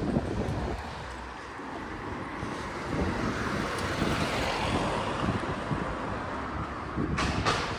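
Wind buffeting the microphone over outdoor street noise. The noise swells and fades through the middle, and there are two sharp clicks near the end.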